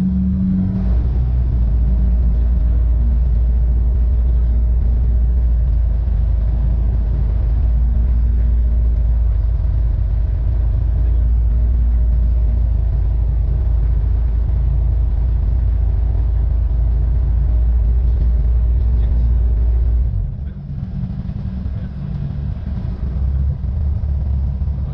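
Cessna 172N's four-cylinder Lycoming engine running steadily, a loud low drone heard in the cockpit. About 20 seconds in the drone becomes quieter and rougher.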